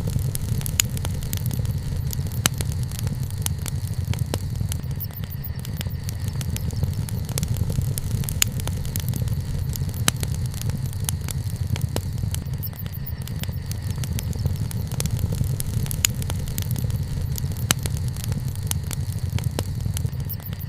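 Wood bonfire burning, with frequent sharp crackles and pops at irregular intervals over a steady low rumble.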